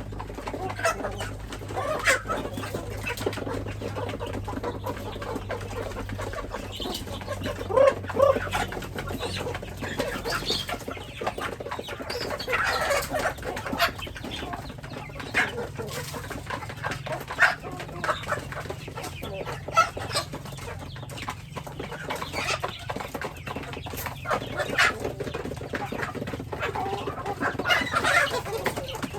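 Domestic chickens clucking, with short calls coming every second or so.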